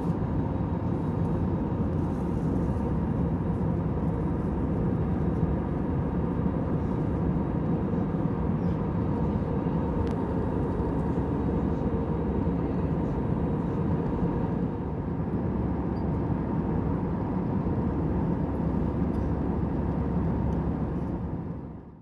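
Airliner cabin noise in flight: a steady hum and rush, with faint held tones over it. It fades out over the final second.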